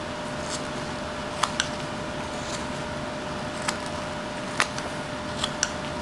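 Whittling knife taking small cuts in butternut wood: about six sharp, short clicks at irregular spacing, over a steady background hum.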